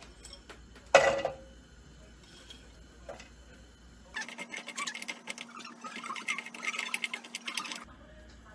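A sharp knock or clink about a second in. Then, from about four seconds in, roughly four seconds of dense crackling and clicking over a faint steady hum.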